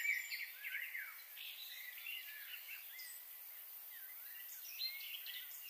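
Birds calling and chirping, many short whistled notes sliding up and down, over a steady outdoor hiss.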